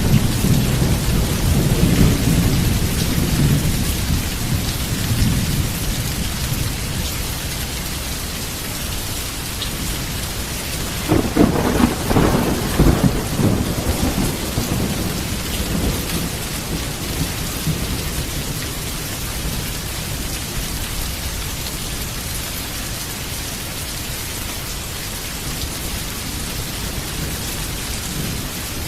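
Heavy rain falling steadily, with thunder: a low rumble fading out over the first few seconds, and another rolling, crackling peal about eleven seconds in that dies away over a few seconds.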